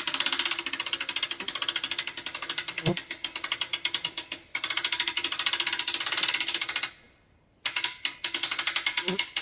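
A ratchet mechanism clicking rapidly and evenly as gear is worked to lift a log. The clicking stops about seven seconds in, starts again briefly, then stops near the end.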